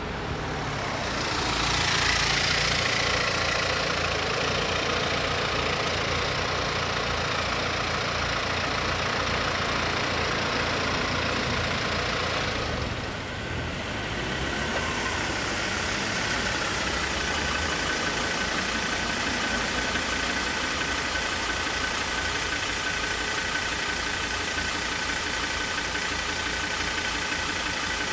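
Car engines idling close by. A steady rushing noise for the first dozen seconds dips briefly and gives way to a steadier idling hum with a faint constant whine.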